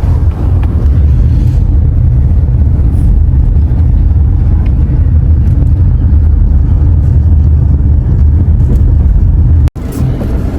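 A car driving slowly, with a steady low rumble of engine, tyre and wind noise. The sound drops out for an instant near the end.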